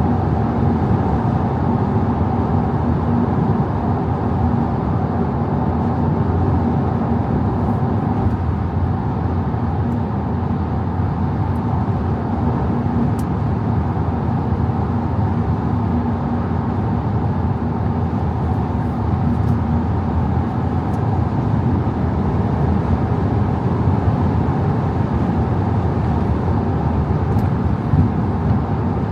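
Audi A5 50 TDI's 3.0 V6 diesel engine and road noise from a car cruising at a steady speed, with a low steady drone and no rise or fall in revs.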